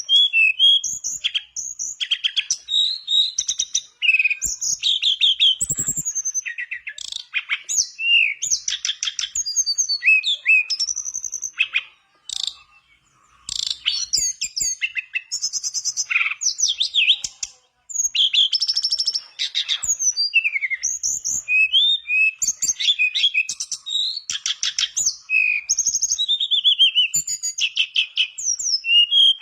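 Tledekan bakau (mangrove blue flycatcher) in full song: a fast, varied run of sweet whistled notes, slurs and rapid trills, broken by a couple of short pauses.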